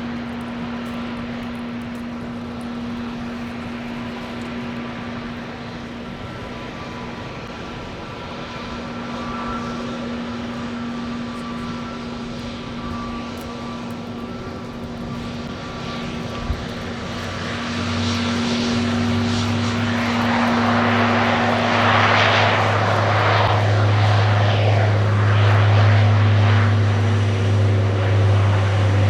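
ANA Wings De Havilland Canada Dash 8 Q400 turboprop, its engines running with a steady hum. About two-thirds of the way through they power up to take-off power: a deep, steady propeller drone sets in, and the sound grows louder as the take-off roll begins.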